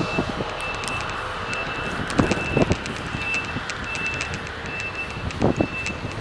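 A vehicle's reversing alarm beeping over and over, a high steady beep repeating under a second apart, over the steady noise of traffic.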